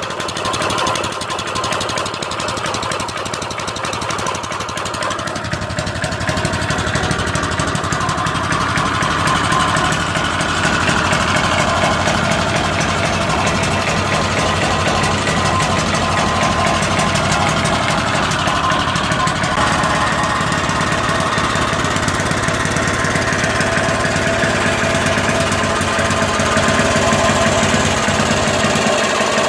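Norton Villiers A15 small stationary engine running with a rapid, even firing beat, getting louder about six seconds in and then holding steady.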